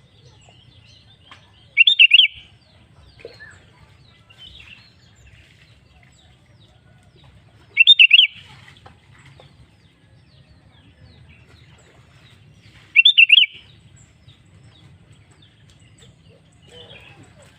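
Sooty-headed bulbul (kutilang) singing a short, loud phrase of a few quick notes three times, about five to six seconds apart, with faint chirps between. A low steady hum runs underneath.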